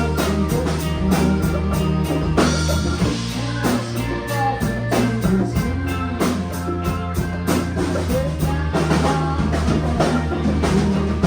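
Rock band playing a song live: drum kit keeping a steady beat over electric guitar and bass.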